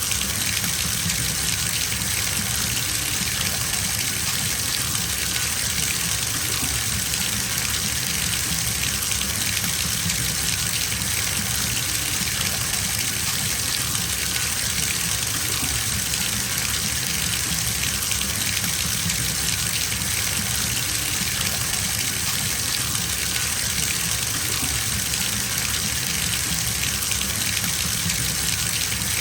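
Bathtub tap running steadily, its stream gushing into the filling tub as an even rush of water.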